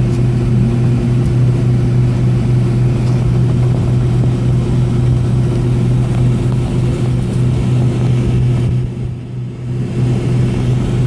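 Steady low drone inside the cabin of a Boeing 757 taxiing on its two Pratt & Whitney PW2037 engines at idle, with a steady low hum running through it. The noise dips briefly about nine seconds in.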